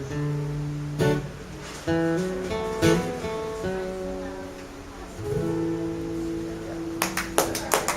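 Acoustic guitar playing the closing chords of a slow song, a chord struck about once a second, with the last chord left ringing. Applause breaks out near the end.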